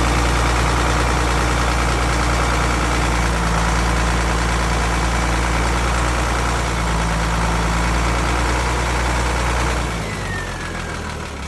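Freshly rebuilt Nissan diesel engine running steadily. Near the end it eases off, quieter, with a short falling whine.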